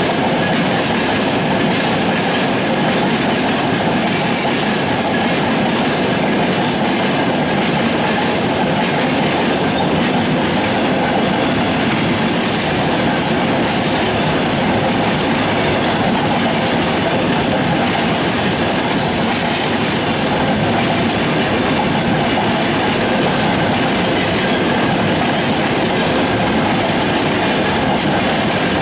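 Freight train wagons, tank cars and then covered hopper cars, rolling past close by: a loud, steady rumble and rattle of steel wheels on the rails.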